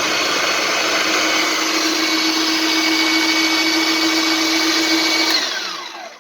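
Philips 1600 W electric meat grinder running steadily with a whining hum, then switched off about five seconds in, its whine falling as the motor winds down.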